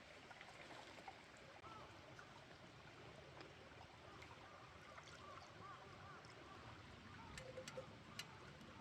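Faint mountain stream running over stones, with a few small sharp clicks near the end.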